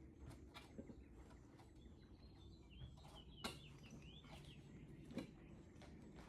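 Near silence: faint bird chirps in the background, with a few light clicks and knocks.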